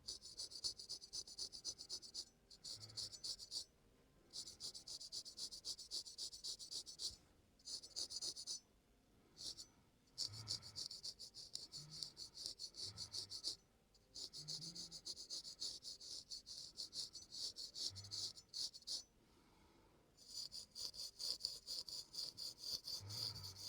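Razor blade scraping across skin and fine facial hair in rapid short strokes, a high, crisp rasp in runs of two to three seconds broken by brief pauses.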